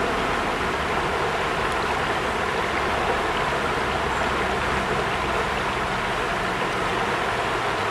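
Mountain torrent's fast water rushing steadily.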